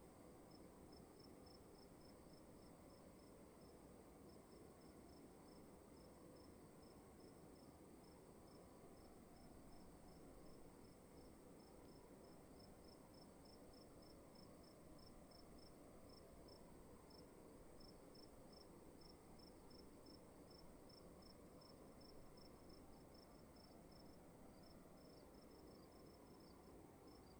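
Faint crickets chirping in an even, rapid series of pulses, with a steady high tone above and a soft low hiss of room tone underneath.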